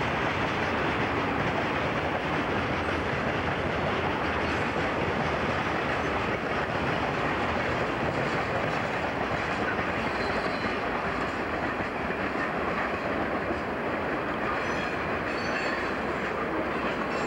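Freight cars of a CSX freight train rolling past, a steady rumble of wheels on rail with clickety-clack over the rail joints. Faint high wheel squeals come in a few times in the second half.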